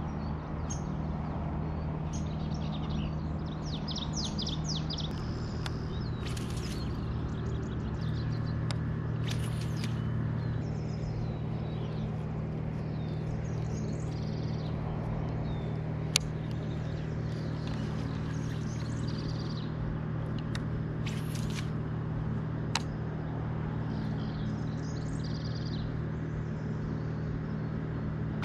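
Small birds chirping and trilling on and off, over a steady low hum, with a couple of sharp clicks about halfway through.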